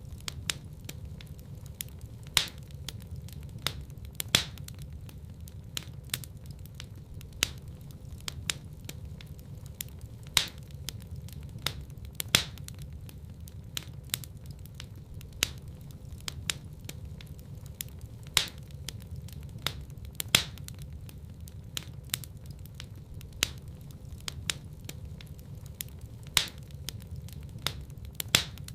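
Wood fire burning in a fireplace: many small crackles and sharp pops over a steady low rumble of flame, with a louder snap every couple of seconds.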